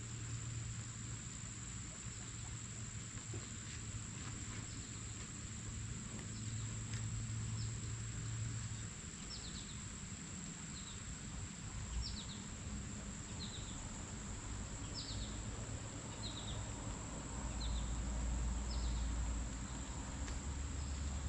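Outdoor garden ambience: a bird repeating short falling chirps about once every second and a half, clearest in the second half, over a steady high-pitched whine and a low rumble.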